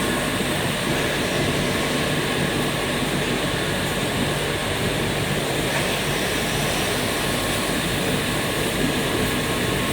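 EPE polyethylene foam sheet extrusion line running: a steady machine drone with a faint constant hum.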